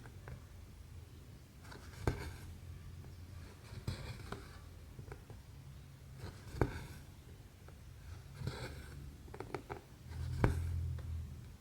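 Needle and embroidery thread pulled through cross-stitch fabric: short rustling draws with small clicks, about one every two seconds, over a low steady hum.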